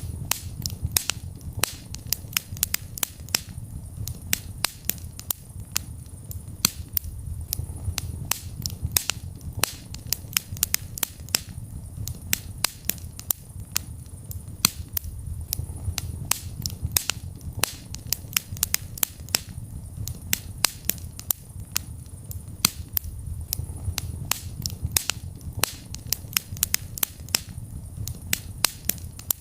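Wood fire burning in a fireplace: many sharp crackles and pops, several a second and irregular, over a low steady rumble of the flames.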